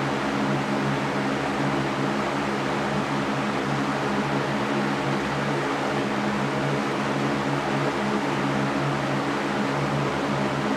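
Electric fan running steadily: an even rushing hiss of moving air over a constant motor hum.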